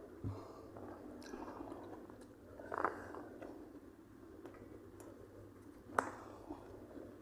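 A person chewing food close to the microphone, with wet mouth sounds running on and a few louder clicks, the sharpest about six seconds in.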